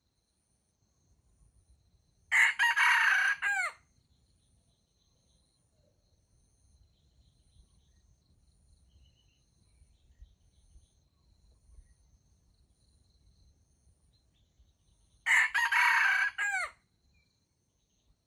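Red junglefowl rooster crowing twice, one short crow each time, about 13 seconds apart, part of the wild cocks answering the bait rooster. Faint insects chirr steadily in between.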